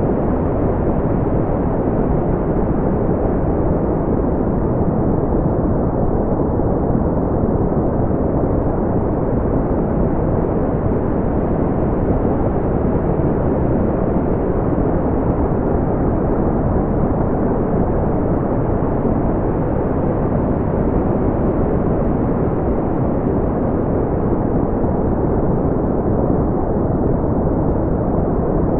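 Steady, unchanging brown noise: a deep rumbling hiss with most of its energy in the low end and nothing above the upper midrange.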